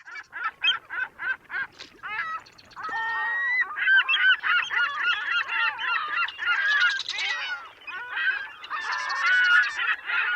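A flock of gulls calling. A quick run of short repeated calls comes first, then from about two and a half seconds in many birds call over one another.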